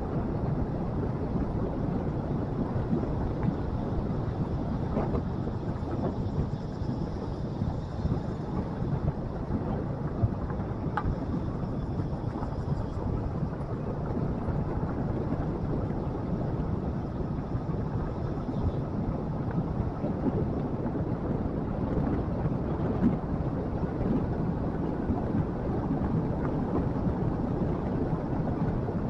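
Motorcycle on the move: its engine running steadily, with rumbling wind and road noise on the microphone.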